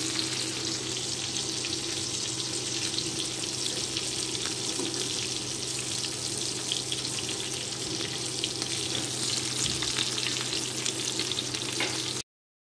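Chapli kababs shallow-frying in oil on a tawa griddle: a steady sizzle full of fine crackles over a low steady hum, cutting off suddenly near the end.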